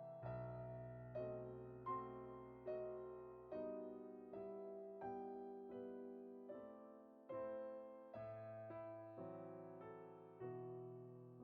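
Slow, gentle piano background music, single notes and chords struck about once a second and left to ring and fade.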